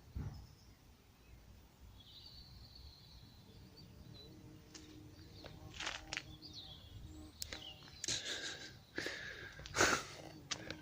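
Small birds chirping in woodland, with a large bee buzzing as a steady low hum from about halfway through. Loud rustling and crackling near the end.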